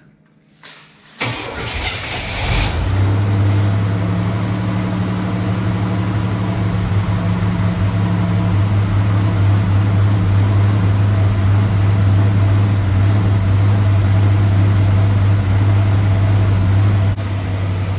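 1987 Buick Turbo T's turbocharged 3.8-litre V6 cold-starting: it catches about a second in, then runs at a steady fast idle, exhausting through a hollowed-out catalytic converter. Near the end the sound drops a little quieter.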